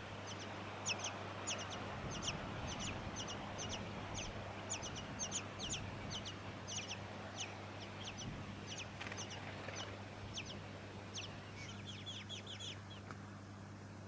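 Tawny-crowned honeyeater nestlings begging at the nest: thin, high chips, each sweeping quickly downward, two or three a second, quickening into a short burst near the end before stopping. A low steady hum runs underneath.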